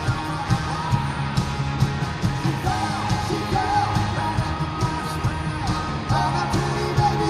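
A live rock band playing a song with a singing voice over it, drums hitting on a steady beat.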